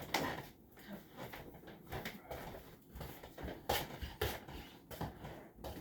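Scattered knocks and clicks of kitchen things being handled and set down, about half a dozen sharp strokes with room noise between them.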